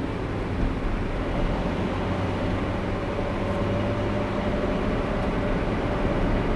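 Car driving steadily, its road and engine noise a low, even rumble with a faint constant hum, heard from the car.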